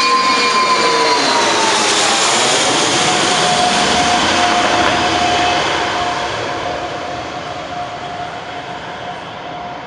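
Fokker F28 Fellowship jet airliner passing on landing, its Rolls-Royce Spey turbofans running with a loud whine that drops in pitch about a second or two in as the aircraft goes by. The engine noise then fades steadily over the last few seconds as it moves away.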